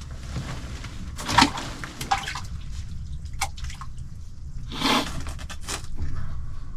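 Water splashing and dripping in an ice-fishing hole, with two brief louder splashes about a second and a half in and near five seconds, over a low steady rumble.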